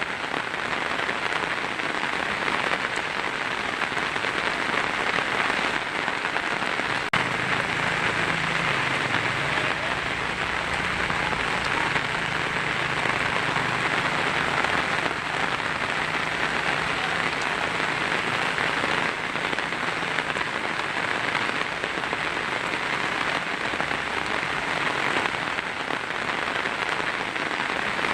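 Heavy rain drumming steadily on a tin roof as a dense, even hiss of drops. A single sharp click comes about seven seconds in, and a faint low rumble sits underneath for the next dozen seconds or so.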